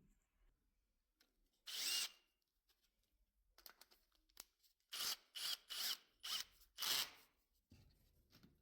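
Fine sandpaper rubbing in short strokes over a starter motor's blackened commutator, cleaning off carbon deposits. One stroke comes about two seconds in, then a run of quick strokes between about five and seven seconds.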